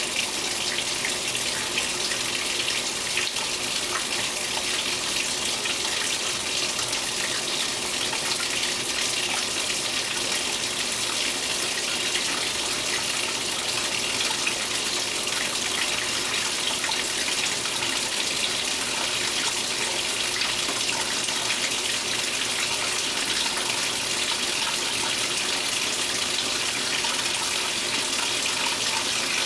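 Speed Queen 8 Series top-load washing machine filling with water: a steady rush of water pouring into the tub.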